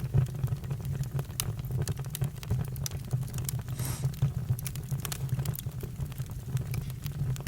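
Campfire crackling: irregular sharp pops and snaps of burning wood over a steady low hum, with a brief hiss about four seconds in.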